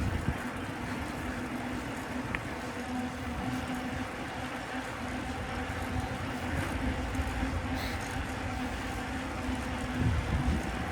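Wind rumbling on the microphone of a moving bicycle, over street traffic noise with a steady low hum.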